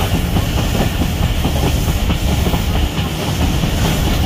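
Passenger train running on the rails, heard from aboard: a steady rumble with the rattle and clatter of the wheels and coach.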